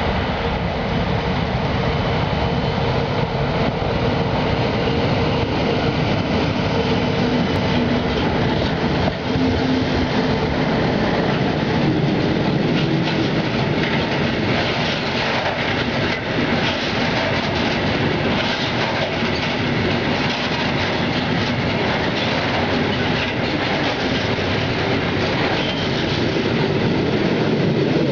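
Iron ore freight train with ore hopper wagons passing close by: a steady loud rumble of steel wheels on the rails, with repeated clicks over the rail joints that become more frequent in the second half.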